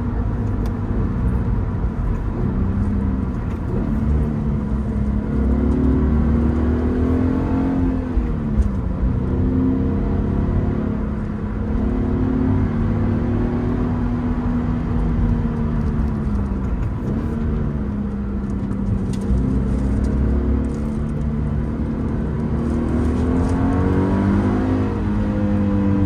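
Second-generation Subaru BRZ's FA24 2.4-litre flat-four engine running while driven, its revs climbing and falling with manual gear changes. The pitch swings sharply about 8 and 17 seconds in, and climbs and drops again near the end.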